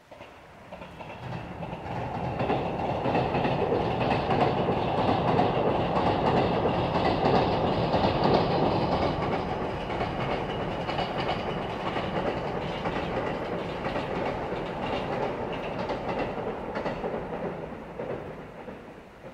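A train passing by: the rail noise builds up over about two seconds, stays loud and steady for most of the time, then fades away near the end.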